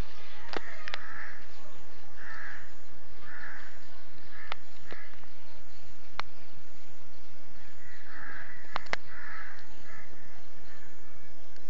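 A bird calling: short calls in two runs of three or four, about a second apart, with several sharp clicks in between.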